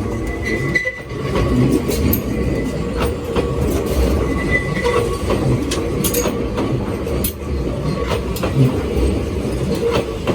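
Enoden (Enoshima Electric Railway) train running on its rails: a steady rumble of wheels with scattered clacks, and two short high wheel squeals.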